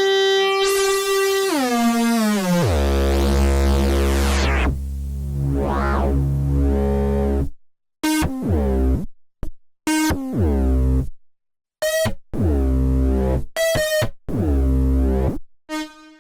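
Dreadbox Artemis synthesizer playing: a held note that slides in pitch, then a deep bass layer under a filter sweeping up and down. From about halfway, short chords and notes start and stop abruptly with brief silences between them.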